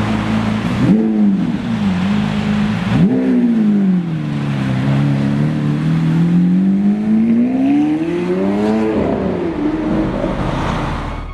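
Supercar engine revved in two quick blips, then its note sinks slowly and climbs back over several seconds, with one more rev near the end.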